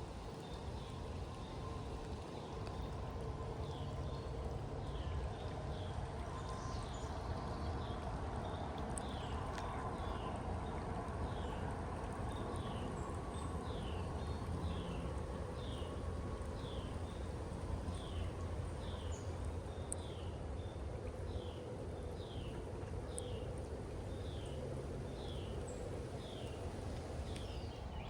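A bird calling a short falling note over and over, about one a second, over a steady low rumble.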